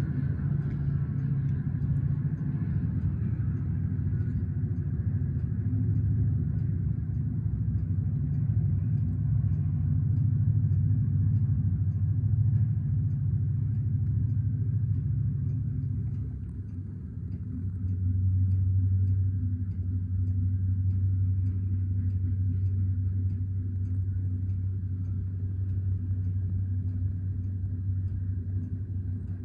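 Freight train passing: a steady low rumble from the diesel locomotives and the rolling cars. About halfway through it dips briefly, then carries on lower in pitch as the string of freight cars rolls by.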